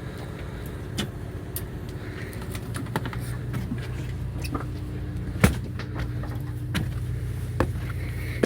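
Steady hum of a fishing boat's machinery running at a constant pitch, with scattered clicks and knocks on deck, the sharpest knock about halfway through.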